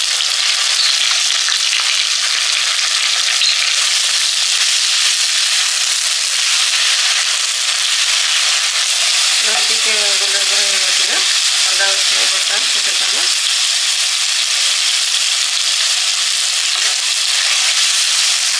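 Onion paste frying in hot mustard oil with whole spices in a wok, sizzling steadily while a wooden spatula stirs it.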